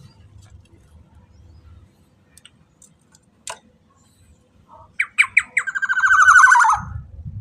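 Black-naped oriole giving a harsh, rattling squawk call about five seconds in: a few sharp strokes, then a quick run of notes sliding slightly lower. A faint low rumble and a few clicks come before it.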